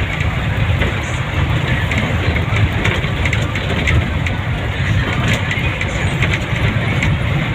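Steady engine and road noise from a vehicle travelling along a road, with a few light clicks or rattles over it.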